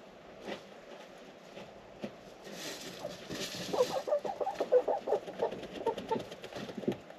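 Hens clucking in many quick, short notes, starting about three and a half seconds in and carrying on. Just before the clucking, a brief hiss rises and fades.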